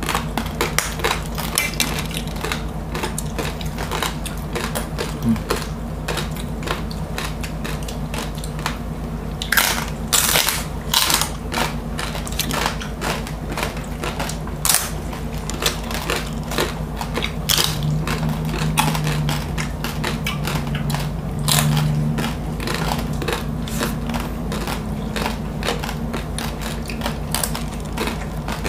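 Close-miked chewing of crispy lechon (roast suckling pig) skin: dense crackly crunches throughout, with a cluster of louder crunches about ten seconds in.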